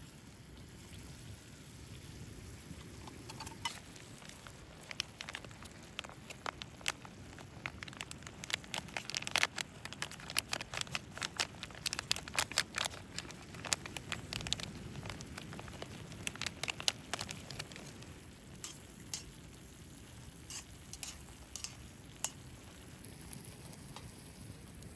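Driftwood campfire crackling: irregular sharp snaps and pops, thickest in the middle, over a steady low rumble.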